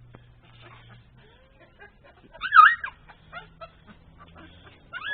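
A dog gives one short, high whine about two and a half seconds in, with faint ticks and scuffs around it and another whine starting at the very end.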